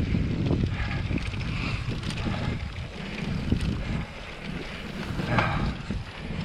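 Wind buffeting an action camera's microphone on a moving mountain bike, over a low rumble and scattered knocks from the bike rolling over the trail.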